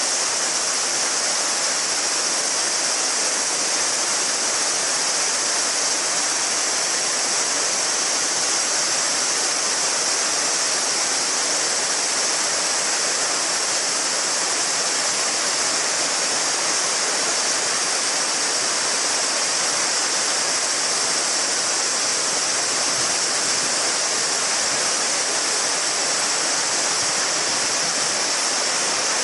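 A shallow mountain river babbling steadily over stones, with a dense chorus of cicadas making a continuous high buzz over the water.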